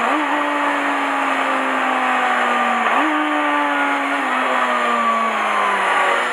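Honda Hornet 250's inline-four engine under steady wind and road noise: its note jumps up sharply twice, about three seconds apart, and each time slowly falls away, the pattern of downshifts while the bike slows on engine braking.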